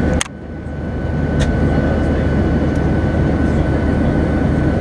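Steady low engine drone inside a passenger vehicle's cabin, with a faint constant high tone over it; it dips briefly just after the start, then holds steady.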